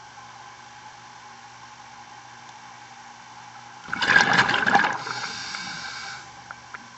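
Scuba diver's exhaled bubbles rushing from a regulator for about two seconds, strongest at first and then fading, over a steady hum.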